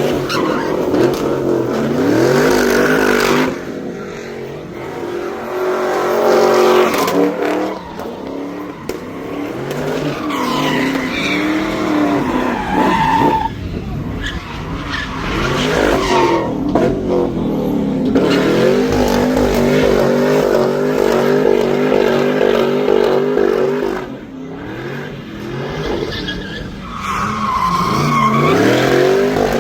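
Car engine revving hard, its pitch climbing and falling again and again, with tires squealing and skidding in a burnout and donuts. The engine eases off briefly a few times before revving up again.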